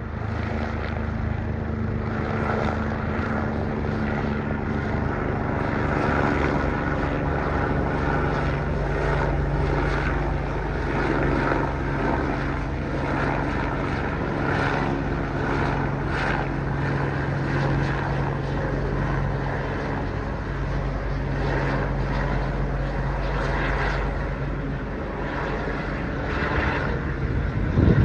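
Eurocopter EC145 twin-turbine helicopter circling overhead: a steady rotor and engine drone with a faint regular beat from the blades, swelling slightly through the middle.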